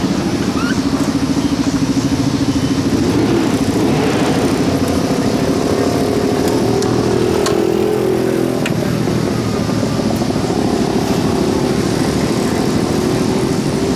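Dirt-track race car V8 engines running steadily and loudly, with one engine's note climbing for a few seconds midway and then falling away.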